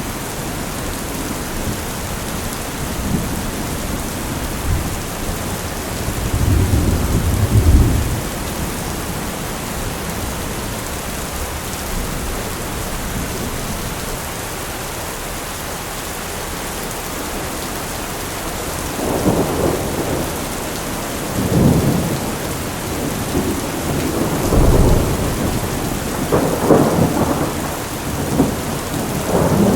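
Heavy rain falling steadily, with rolling thunder: a low rumble about six to eight seconds in, then several louder peals in the last ten seconds.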